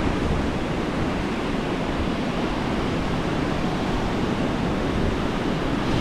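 Surf of the Bay of Bengal washing on the beach in a steady rush, mixed with wind buffeting the microphone.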